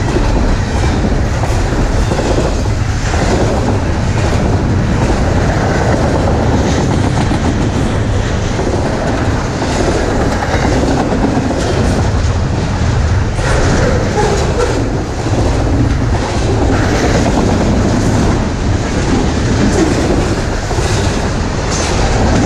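Freight train rolling past, with a steady loud rumble and the wheels clacking over the rail joints.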